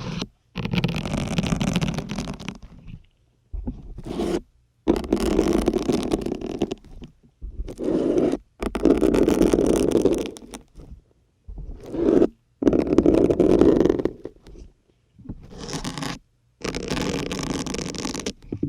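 Syringes pushed one after another into a dense grey sponge, each push a drawn-out 'ppuuk' of the sponge giving way around the syringe. About nine pushes, each lasting one to two seconds, with short silent pauses between them.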